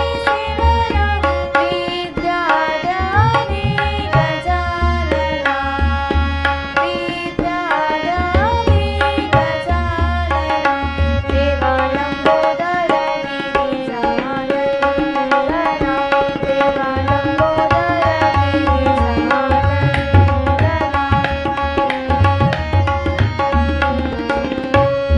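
Marathi devotional bhajan music: a steady tabla-style drum rhythm with deep bass strokes under a held drone and a gliding melody line.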